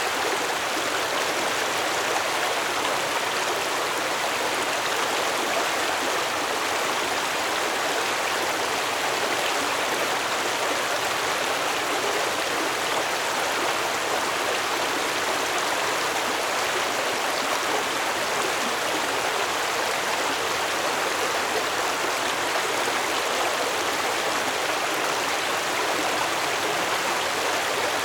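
Stream water flowing steadily over rocks, an even rushing and babbling with no breaks.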